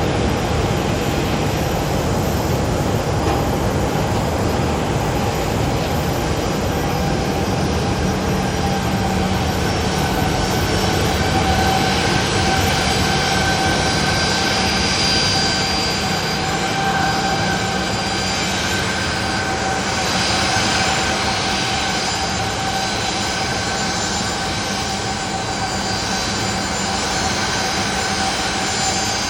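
Boeing 737-800's CFM56-7B jet engines running steadily: a broad rushing noise with a high whine held on a few steady pitches.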